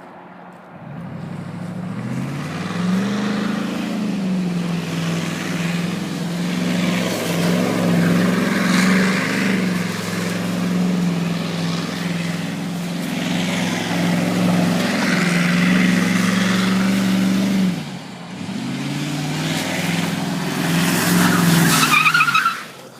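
Truck engine revving hard: it climbs about a second in and holds high revs, drops off briefly, then revs up again. A high tyre squeal comes near the end before the engine cuts off suddenly.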